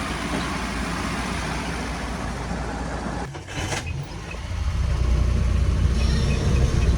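The petrol engine of a 1970 Nissan 4x4 truck running. After a brief break about three and a half seconds in, it grows louder and deeper from about four and a half seconds, as the truck gets going smoothly.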